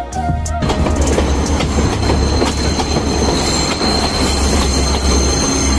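Passenger train running on the rails: a steady, loud rumble with a high, drawn-out wheel squeal.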